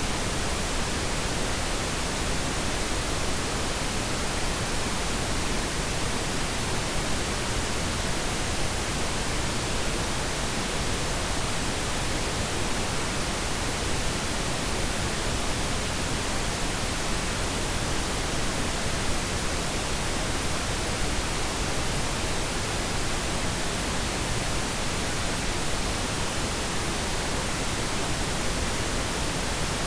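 Steady synthetic pink noise: an even, unchanging hiss spread across the whole range, softer in the highs than white noise.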